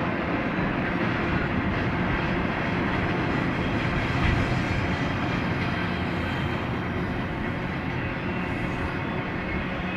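BNSF double-stack intermodal train's container well cars rolling past: a steady rumble of steel wheels on rail.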